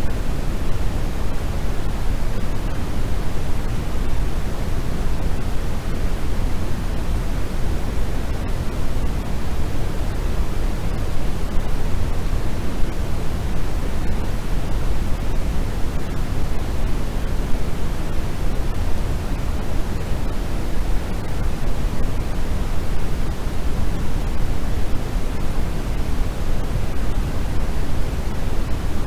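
Steady, unbroken noise played for sleep, with no change in level. It is heaviest in the low end and thins toward the highs, nearer pink noise than true white noise.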